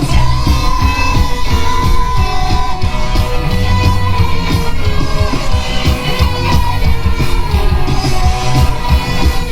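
Rock band playing live and loud through a PA: electric guitars, bass guitar and drums, with a held lead melody over a steady driving beat.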